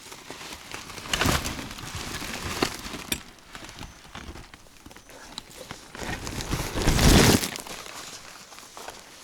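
Plastic packaging crinkling and rustling as it is handled, in irregular bursts, loudest about seven seconds in.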